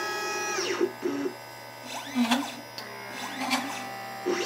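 LitePlacer pick-and-place machine's stepper motors whining as the head moves, several times over. Each move is a pitched whine that rises, holds and falls away. Between the moves come short lower buzzes and a few clicks.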